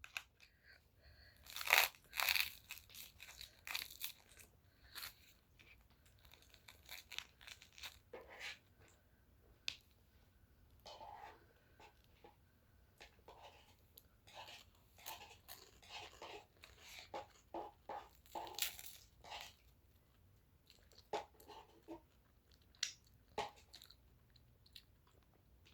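A person eating fried and scrambled egg close to the microphone: irregular chewing and biting, with loud sharp clicks about two seconds in.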